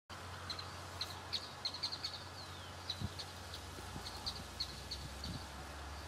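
Birds chirping outdoors: many quick, high chirps repeated throughout, with a couple of short falling notes, over a steady low hum.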